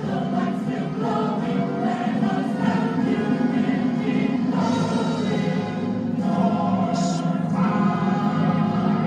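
Recorded music: a choir of voices singing over a full instrumental backing.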